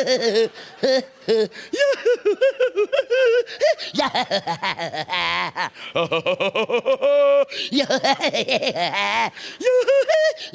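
A man laugh-singing: rapid on-pitch 'ha-ha-ha' pulses, broken by a few long held notes that waver.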